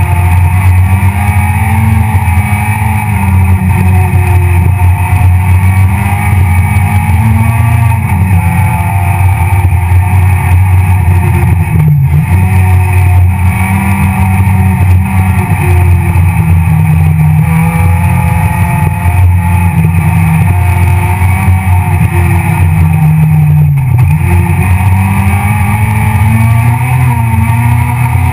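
Citroën C2 R2 Max rally car's four-cylinder engine heard from inside the cockpit, revving up and down hard through the gears at racing pace, with brief drops in revs about halfway and again near the end.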